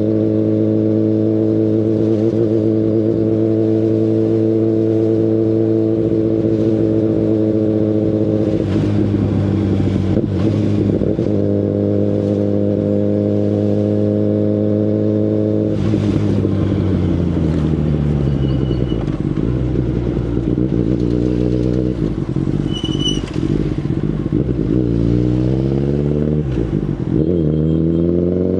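2019 Kawasaki Ninja ZX-10RR's inline-four engine through an Akrapovic Evolution Line full exhaust system, heard on the move. It holds a steady note while cruising, with a brief disturbance about nine seconds in. It then falls in pitch as the bike slows, and rises again twice near the end as it accelerates.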